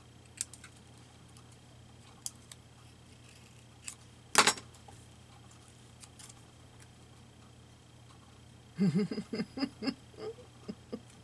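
Quiet room with a few faint clicks and one sharp click from handling craft materials at a table, then a person chuckling softly near the end.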